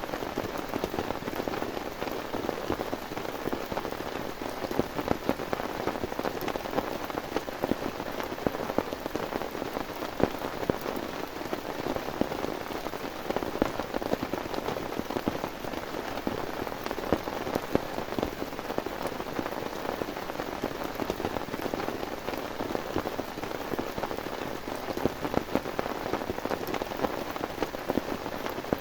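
Heavy rain falling steadily, thick with the sharp taps of individual drops hitting a surface close by.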